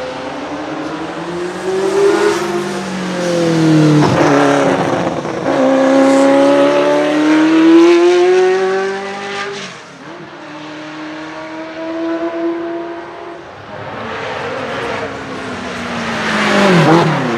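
Ferrari F40 LM's twin-turbo 2.9-litre V8 accelerating hard, revs climbing and dropping at gear changes. Its pitch falls sharply as it passes about four seconds in and again near the end.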